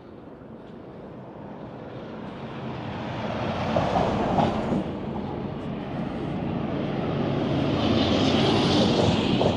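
Road traffic passing close by: tyre and engine noise that grows steadily louder as a vehicle approaches, with a tyre hiss near the end.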